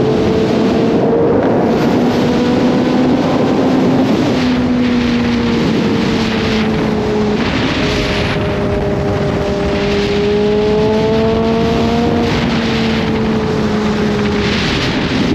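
Kawasaki Z H2's supercharged inline-four engine running under way, its note slowly rising and falling with the throttle and dropping twice, about seven and twelve seconds in, over a steady rush of wind noise.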